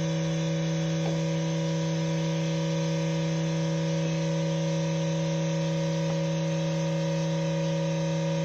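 TYM T574 tractor's diesel engine running at a steady speed, giving an even, unchanging drone with a few faint ticks.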